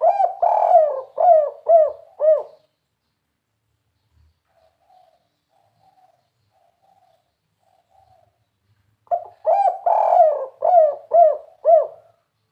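Spotted dove (tekukur) cooing its 'kuk 3' song, a prized song type among Indonesian dove keepers: a phrase of several rising-and-falling coos at the start, then faint softer cooing, then a second loud phrase about nine seconds in.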